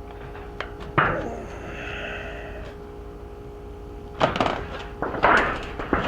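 Hands working materials for a bird-feeder squirrel guard. A sharp knock comes about a second in, then a run of clattering and scraping handling noises near the end.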